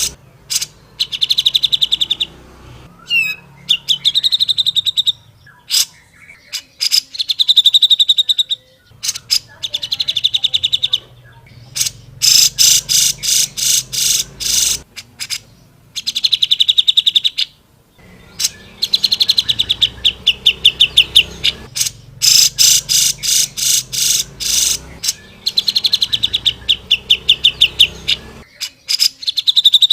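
Grey-cheeked bulbul (cucak jenggot) singing loudly in rapid trilled phrases of fast repeated notes, each phrase a second or two long, with short pauses between.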